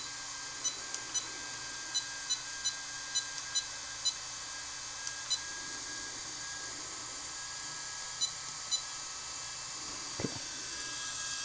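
Short, high electronic beeps, about fifteen of them at irregular intervals, over a steady hiss and hum of cooling airflow on the bench electronics.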